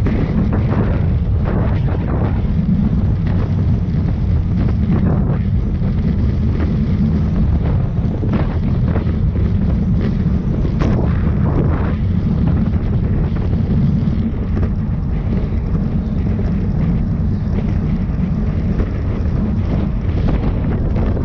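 Wind buffeting the microphone of a camera on a bicycle moving at race speed: a loud, steady low rumble with scattered short crackles.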